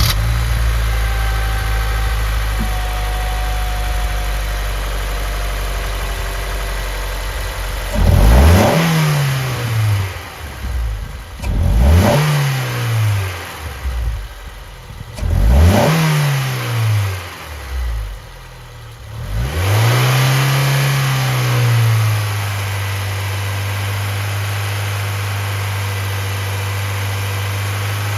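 Honda S2000's F22C four-cylinder VTEC engine idling, then revved sharply three times about four seconds apart, each rev climbing quickly and dropping back, followed by a gentler, longer rev before it settles back to a steady idle.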